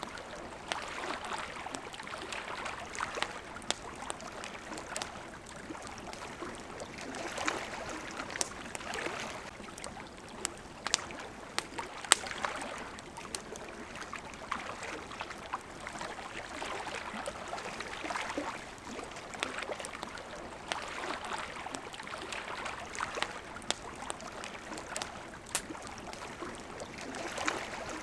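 Water lapping at a shore, rising and falling every few seconds, with a campfire crackling over it in frequent sharp pops, the loudest about twelve seconds in.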